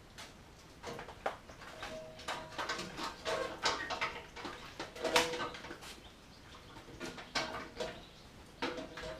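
Irregular clinks and knocks of hand tools and metal parts, some leaving a brief metallic ring, as the tractor is taken apart.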